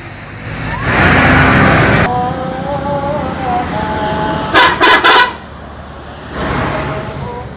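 Vehicle sounds with horn toots: a rush of vehicle noise, then held wavering horn tones, and a quick burst of short horn blasts about halfway through, followed by more vehicle noise.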